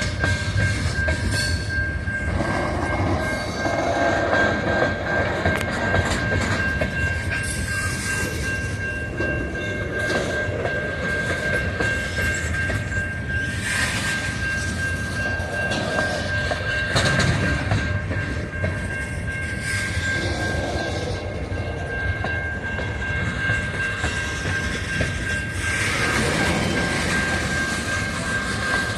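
A train rolls past at close range, its railcars clattering over the rails. A steady high-pitched tone runs under the clatter and fades briefly about two-thirds of the way through.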